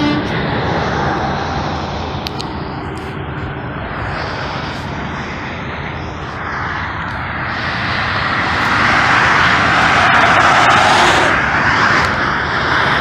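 Road traffic noise: a rushing vehicle sound that grows louder in the second half, as a vehicle passes close by.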